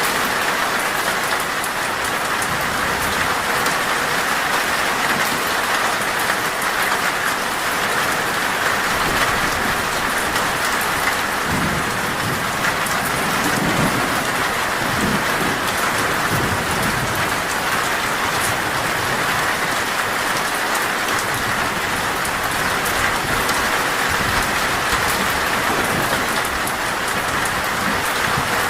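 Heavy, steady rain drumming on a metal roof, with a low rumble of thunder rolling through the middle.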